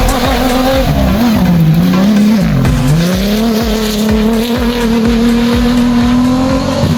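Off-road rally vehicle's engine revving. Its note dips and rises twice in the first three seconds, then climbs steadily and holds high.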